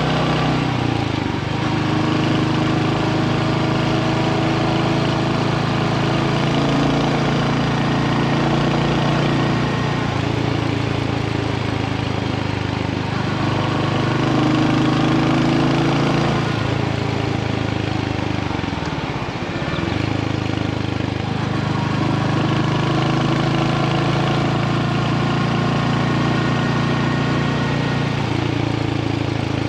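Royal Enfield Hunter 350's single-cylinder engine running steadily, its pitch shifting now and then; about 19 seconds in, the engine speed drops sharply and climbs back.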